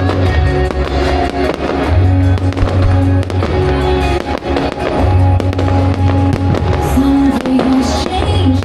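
Fireworks banging and crackling over loud music with a heavy, held bass line.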